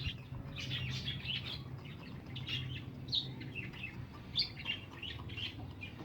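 Small birds chirping: many short, high chirps overlapping continuously, over a steady low hum.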